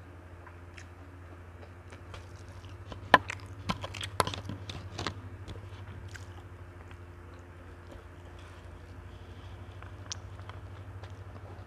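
Close-miked eating sounds: chewing of rice and cassava-leaf rendang, with a cluster of sharp, crunchy bites and crackles about three to five seconds in. A low steady hum lies underneath.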